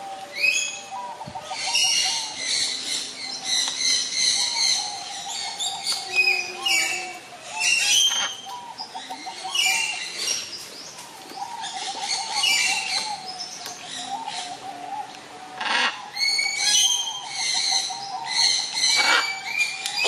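Many birds chirping and calling at once, in repeated bouts of quick, high, sweeping chirps over a steady lower warbling call.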